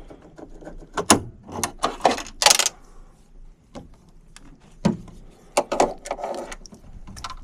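Hands working on the air handler's capacitor and wiring with tools and meter leads: a run of sharp clicks, knocks and short scrapes, the loudest about a second in, at two and a half seconds and at about five to six seconds.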